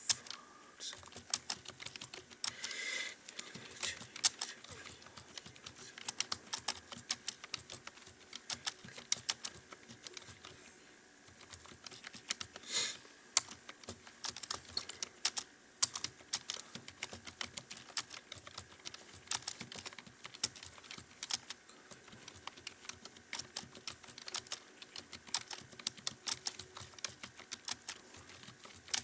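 Fast, irregular typing on a computer keyboard, a steady stream of key clicks with occasional louder strokes. A brief louder noise about thirteen seconds in.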